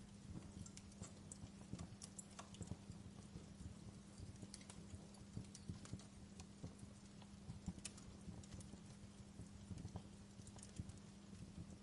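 Wood fire in a fireplace crackling: irregular sharp snaps and pops, a few louder ones, over a faint steady low hum.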